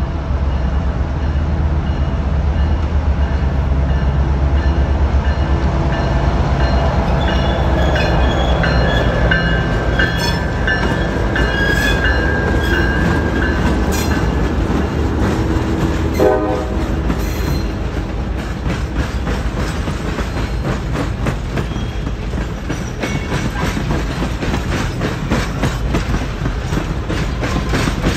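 Passenger train pulling past: the diesel locomotive's low rumble first, then the passenger cars rolling by, with high wheel squeal from about a third of the way in and a brief tone just past halfway. Through the second half the wheels clack steadily over the rail joints.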